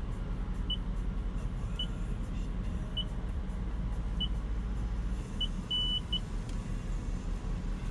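Car wash entry keypad beeping as a five-digit code is keyed in: five short high beeps about a second apart, then a longer beep and one more short one. A car engine idles steadily underneath.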